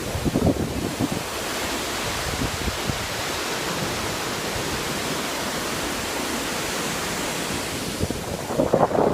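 Steady rush of a waterfall, an even hiss of falling water. Low buffeting on the microphone just after the start and again near the end.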